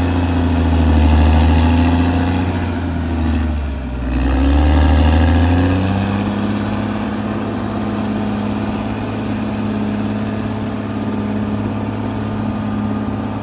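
Caterpillar D6R XL bulldozer's diesel engine working under load, dipping in pitch and level about four seconds in and surging back, then running steadier and a little quieter from about six seconds on.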